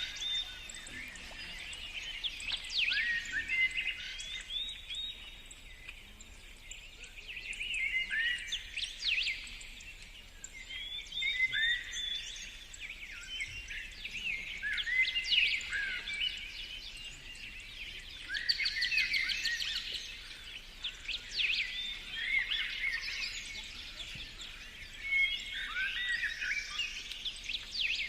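Songbirds singing: repeated song phrases of quick trills and downward-sliding notes, each lasting a second or two and returning every few seconds.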